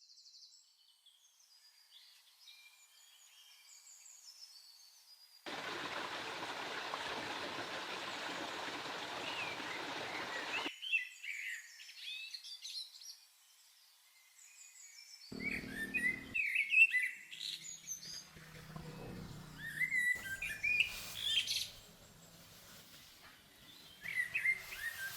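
Birds chirping and calling in short scattered notes. For about five seconds in the first half, a steady rushing noise starts and stops abruptly.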